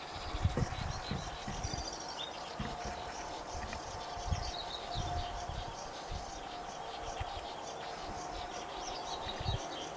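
Outdoor nature ambience: small birds chirping now and then in short high calls over a steady insect buzz, with irregular low thumps of wind on the microphone.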